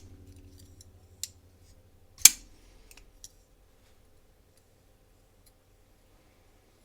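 Small sharp metallic clicks from handling a folding knife and its pivot-screw driver while the pivot is loosened a little: a light click about a second in, a louder one a second later, a few faint ticks, then quiet.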